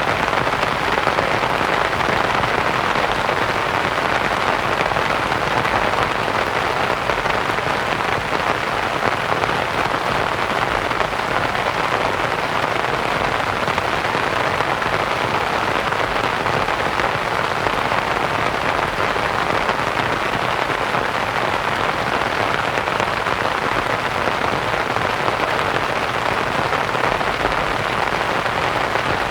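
Steady rain pattering on a canvas tent, blended with soft white noise, at an even, unchanging level.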